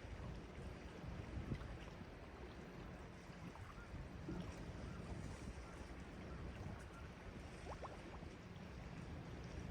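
Sea waves washing steadily, with wind rumbling on the microphone. A couple of faint short high tones come about eight seconds in.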